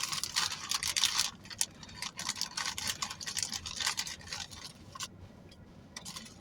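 Someone chewing crunchy chips close to the microphone: crackly crunching in bursts, pausing about a second in and again near five seconds.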